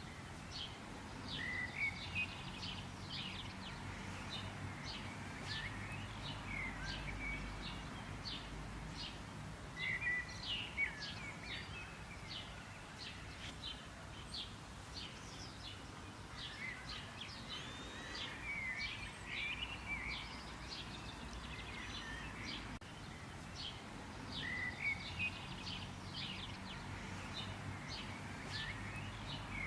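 Birdsong: several birds chirping and trilling in quick short notes throughout, over a steady low outdoor rumble.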